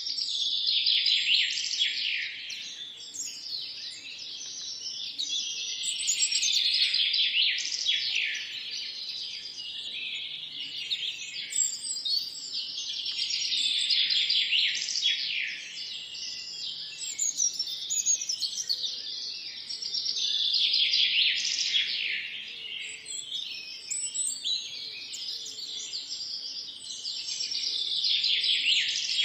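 Birds chirping and singing, many overlapping high, quick downward-sweeping notes. The chorus swells and eases off in waves every six or seven seconds.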